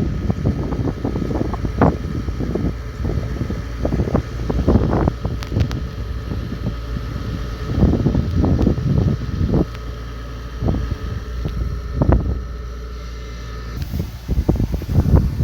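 Kubota DC70 combine harvester running steadily: a constant low engine rumble with a faint steady whine above it, and irregular gusts of wind buffeting the microphone.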